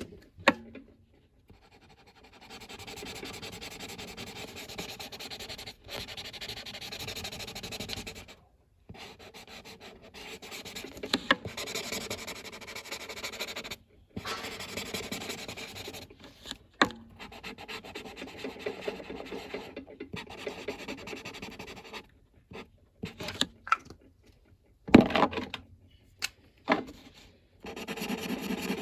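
Colouring in a drawing on paper: steady rubbing strokes of a colouring tool in runs of several seconds, broken by short pauses and a few sharp taps.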